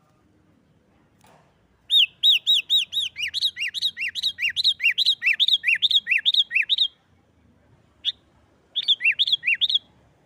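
Sooty-headed bulbul (kutilang) singing its fast, repetitive 'nggaruda' fighting song: a rapid run of arching whistled notes, alternating high and low at about five a second. The run starts about two seconds in and lasts some five seconds, followed by a single note and then a shorter run near the end.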